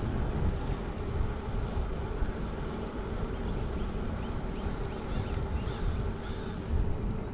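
Wind buffeting the microphone with a steady low rumble while riding a bicycle, and a bird calling three short times in a row near the end.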